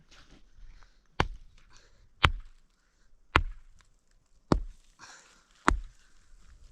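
Axe chopping wood: five sharp, evenly spaced blows, about one a second.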